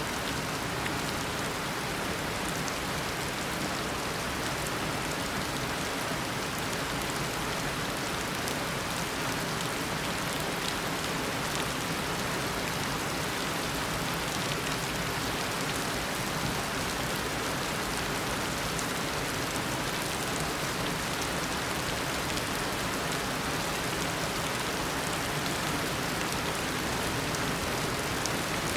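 Heavy tropical rain falling steadily, a dense even hiss of drops on surfaces with faint individual drop ticks.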